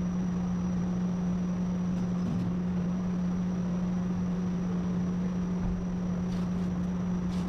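Steady machine hum: one constant low tone with an even hiss behind it, and a few faint ticks near the end.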